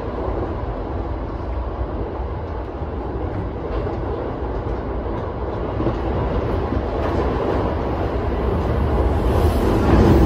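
JR East E233 series electric train running at speed, a steady rumble of wheels on rail heard from inside the front car. It grows louder over the last few seconds, and a thin high tone joins in near the end.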